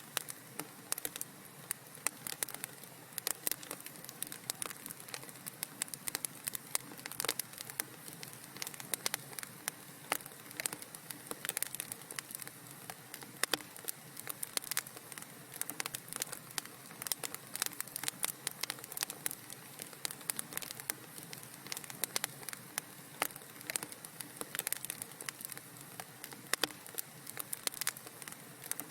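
Wood fire crackling in a fireplace: a steady soft hiss with many sharp, irregular pops and snaps.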